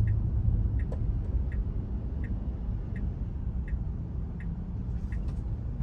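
Tesla turn-signal indicator ticking evenly, about one tick every three-quarters of a second, over low cabin road rumble.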